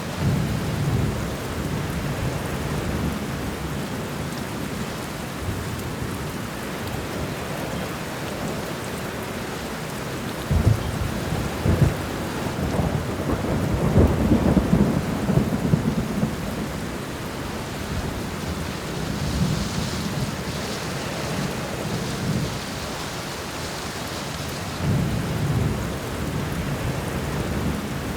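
Steady heavy rain with rolling thunder: low rumbles swell several times, the loudest and longest from about ten to sixteen seconds in, with a few sharper cracks near its start.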